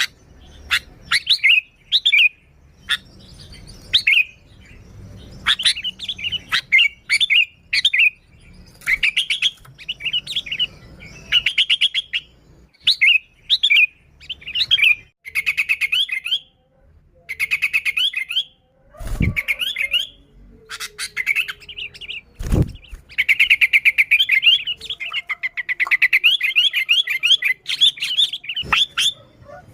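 Sooty-headed bulbuls (kutilang) calling lively and without pause: short bubbling chirped phrases repeated with brief gaps, now and then running into fast rattling trills. Two dull thumps in the second half.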